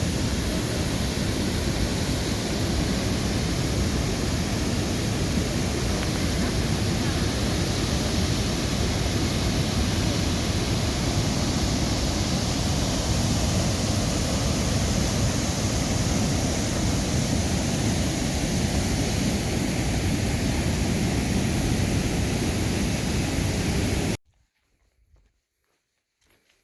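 Waterfall's steady rush of falling water, cutting off abruptly near the end.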